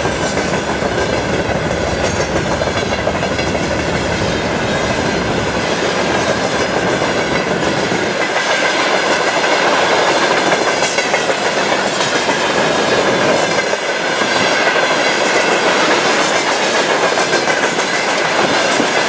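Open freight gondola wagons rolling past close by: the steady, loud rolling and clatter of steel wheels on the rails, with a thin steady ringing tone over it.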